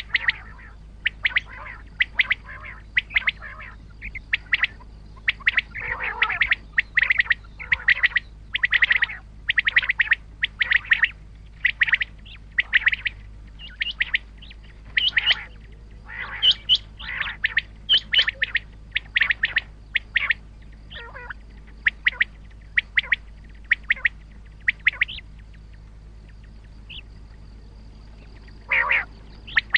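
Common quail calling: a rapid run of short, sharp call notes repeated many times, with a pause of a few seconds near the end before another call.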